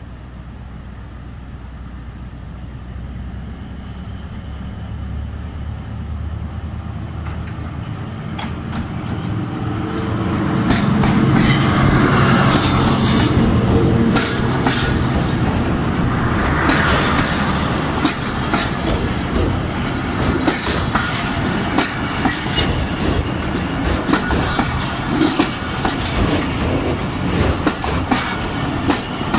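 Diesel locomotive of a passenger train approaching and passing close by: its engine grows steadily louder for about ten seconds and is loudest as it goes past. The coaches then roll by with steady clickety-clack of wheels over rail joints.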